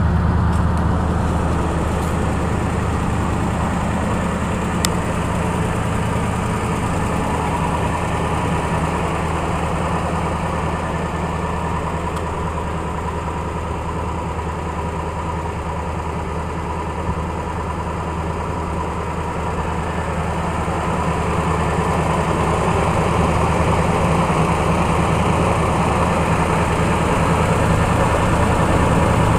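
1936 Ford truck's flathead V8 idling steadily, a little louder over the last third.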